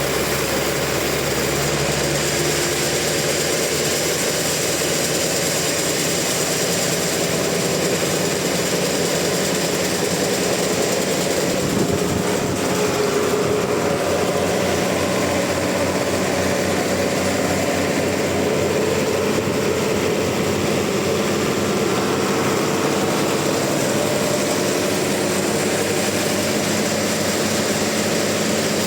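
Sawmill saw and its engine running steadily and loudly while sawing a trembesi (rain tree) log, with a fast low pulsing setting in about twelve seconds in.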